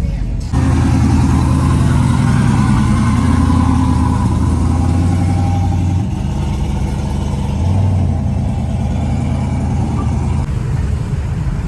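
A vehicle engine running close by with a deep, steady note that starts abruptly about half a second in and eases slightly about six seconds in.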